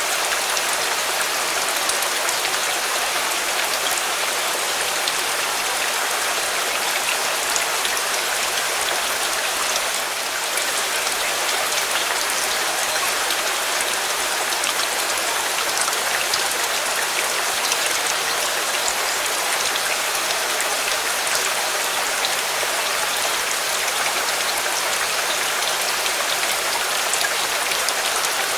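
Steady rain falling, an even dense hiss of drops on surfaces with many small scattered drop ticks, dipping slightly about ten seconds in.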